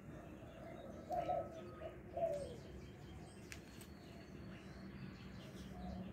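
Two short, low bird calls about a second apart, the second sliding down in pitch, with a few faint high chirps behind them.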